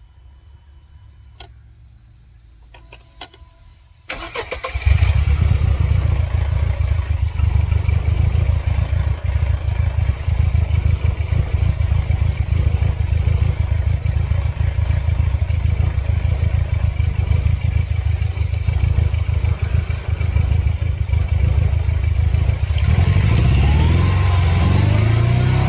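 A few faint clicks, then the 1999 Mercedes-Benz C230 Kompressor's supercharged four-cylinder engine starts suddenly about four seconds in and runs steadily with a deep, low note. Near the end it is revved, its pitch rising and falling.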